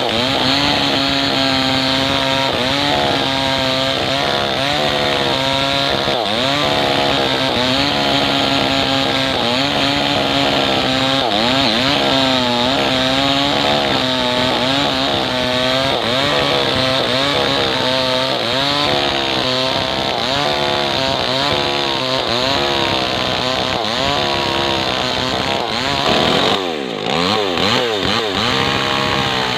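Maestro 6500L two-stroke chainsaw running at high revs while ripping lengthwise through kapok (randu) wood, its engine pitch wavering up and down as the chain loads and unloads. Near the end the engine note briefly dips and then picks back up.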